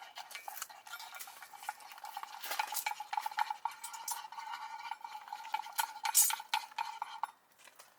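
A utensil stirring and scraping in a pan, with irregular metal clinks over a steady high hum that cuts off about seven seconds in.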